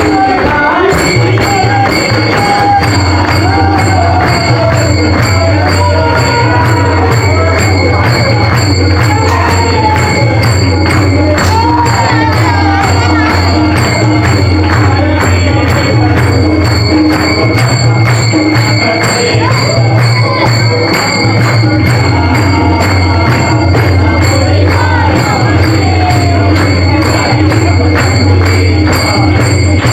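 Devotional music: singing over jingling percussion that keeps a steady, fast beat.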